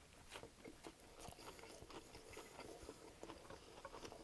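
Close-miked chewing of a chicken ranch wrap with crispy chicken and lettuce: faint mouth sounds with scattered small crunches and wet clicks.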